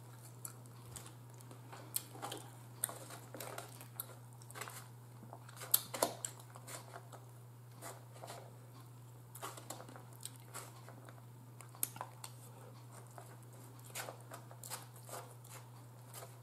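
Close-up eating sounds of someone chewing glazed fried chicken wings: scattered short, crisp clicks and crunches of biting and chewing, over a steady low hum.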